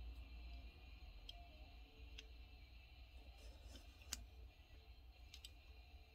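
Near silence: a low room hum with a few faint, scattered clicks, the sharpest about four seconds in.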